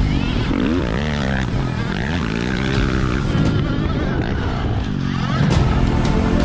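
Dirt bike engines revving, their pitch rising and falling again and again over a steady low rumble.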